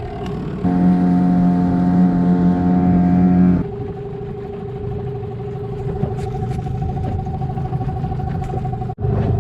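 Boat motor running at a steady speed, with an abrupt change in its sound a few seconds in.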